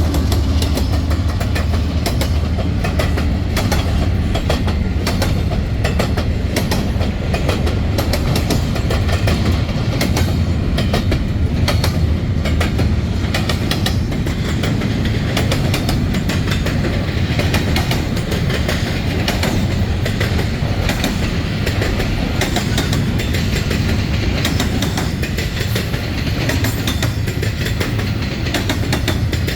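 Norfolk Southern freight train passing at close range: a steady low diesel rumble with a dense, continuous clatter of wheels clicking over the rail joints and the road crossing.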